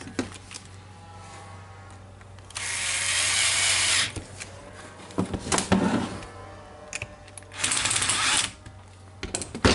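A power tool runs in two short bursts, the first about a second and a half long and the second shorter, with knocks and clicks of parts being handled between them and near the end.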